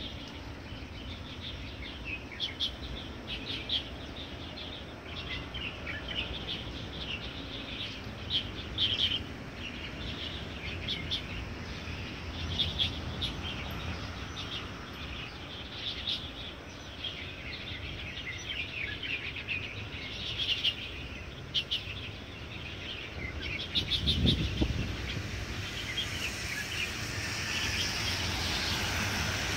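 Many birds chirping and singing at once, short calls and trills overlapping throughout, over a steady low rumble.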